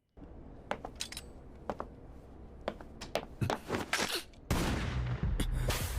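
Scattered gunshots and sharp impacts at irregular intervals, a burst of gunfire from the anime's soundtrack. About four and a half seconds in, a steady low hum starts suddenly.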